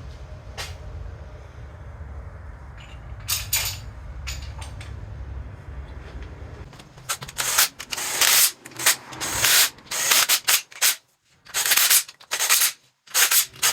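Hands-on rubbing and scraping during engine block assembly: a low hum with a few clicks, then from about seven seconds in a run of short, irregular rubbing strokes.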